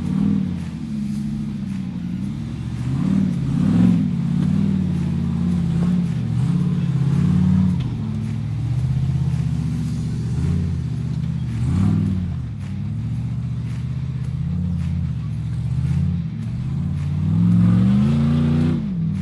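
Off-road Jeep engine running hard on a trail, revving up and falling back several times, with the biggest rise near the end.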